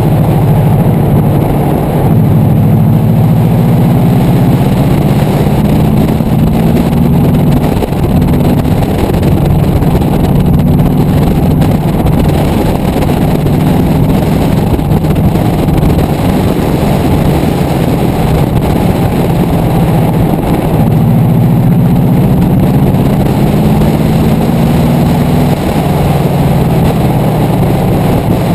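Subaru Impreza WRX's turbocharged flat-four engine driven hard on a dirt track. Its pitch climbs for several seconds and then drops back, twice, over a steady rush of tyre and wind noise.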